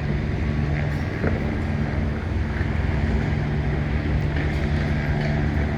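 Steady low engine drone, even in level throughout, with a few faint clicks over it.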